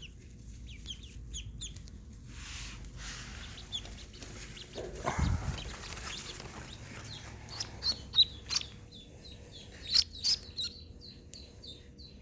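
Golden 300 ducklings peeping: scattered short high peeps, growing more frequent in the last few seconds. A low rustling bump about five seconds in.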